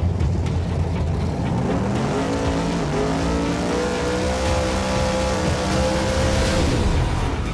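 Race car engine at high revs under a low rumble: its pitch climbs about two seconds in, holds high, then drops near the end.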